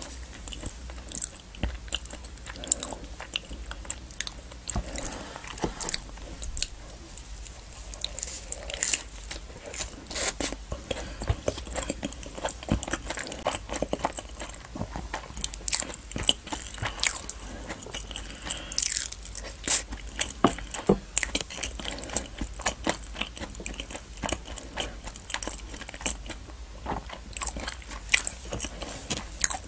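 Close-miked chewing of a mouthful of naan with butter chicken curry: mouth sounds with many irregular clicks throughout.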